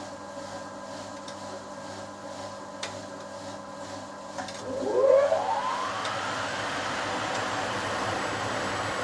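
1980 HUWA Automatic Standard 4 washing machine: a steady hum with a few light clicks, then about halfway through a rising whine as the drum picks up speed, settling into a steady, louder rushing run, typical of the machine going into spin.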